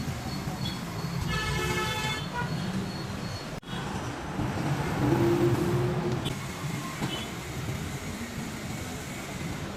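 Road traffic with engines running and a vehicle horn honking briefly about one and a half seconds in. The sound breaks off abruptly for an instant midway, then the traffic goes on.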